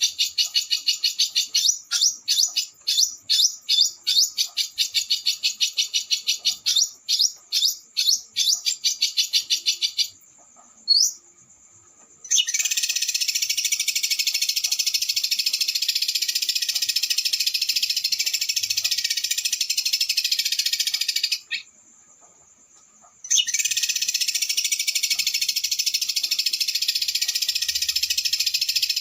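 Small songbird's high, rapid trilling song of the 'roll speed' kind. It starts as a run of quick sharp notes and falling sweeps. After a short pause it goes into a dense unbroken trill of about nine seconds, breaks off for two seconds, and starts again.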